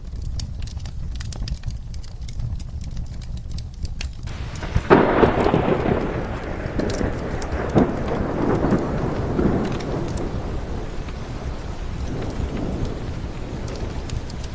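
Steady rain with a fireplace crackling, then a clap of thunder about five seconds in that rumbles and slowly fades away.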